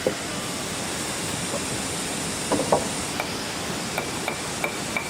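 A steady rushing hiss, with a string of short, light knocks and clicks in the second half.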